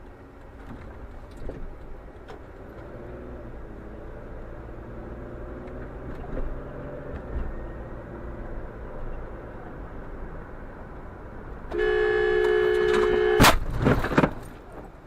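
Road noise and engine hum from a moving car. Near the end a car horn sounds for under two seconds, cut off by a loud crash and a couple more knocks, typical of a collision.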